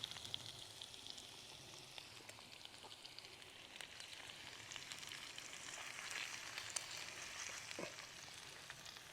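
Eggs and sausages frying in a pan: a faint, steady sizzle with scattered small pops.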